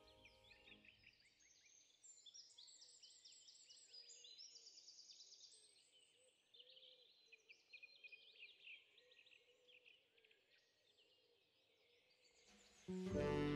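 Faint birdsong: quick, repeated high chirps and trills from small songbirds.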